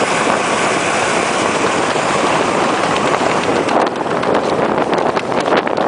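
Steady rushing noise of an ice boat under way on the ice, with wind across the microphone. From a little past halfway, a run of sharp clicks and crackles joins in.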